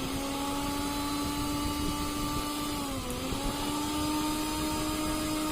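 Bajaj Twister DLX 750 W mixer grinder's motor running steadily with a high whine. Its pitch dips briefly about three seconds in, then recovers.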